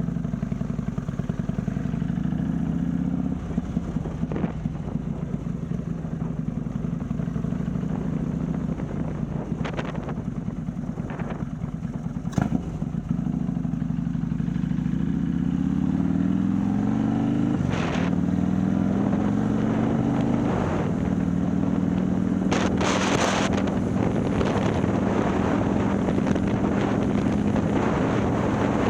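Harley-Davidson Milwaukee-Eight V-twin, bored out to 130 cubic inches and running through a ThunderHeader exhaust, heard from the bike while riding. It runs steadily at first, then the revs climb, drop at a gear change, and climb again before settling into a steady cruise. Wind noise builds toward the end.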